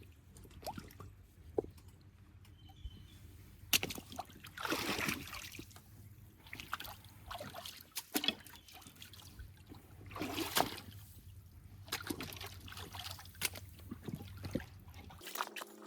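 Footsteps over loose rocks at the water's edge: rocks clicking and knocking underfoot, with splashing and sloshing water.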